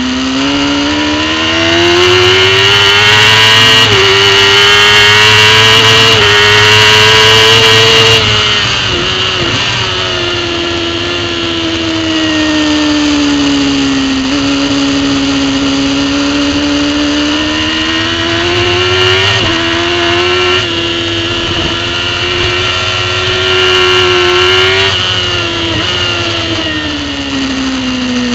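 Racing superbike engine heard from a camera on the bike, pulling hard with rising revs and quick upshifts about 4 and 6 seconds in. It then drops away with falling revs as the bike slows for a corner. From about halfway it climbs again through more upshifts, holds, and falls once more near the end.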